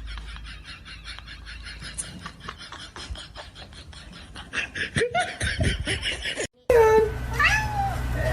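A cat meowing: loud, drawn-out meows that rise and fall in pitch, starting after an abrupt cut about two thirds of the way in. Before the cut there is a quick, regular run of faint ticks.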